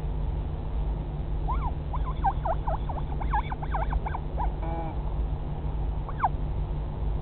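Northern royal albatross chick calling: a quick run of squeaky whistles sliding up and down, a short buzzier note, then one more whistle, over a steady low rumble.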